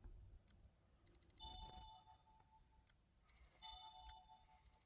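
Online dice game sound effects: twice, a quick run of soft ticks followed by a bright electronic chime that rings and fades over about a second, with a few single mouse clicks between.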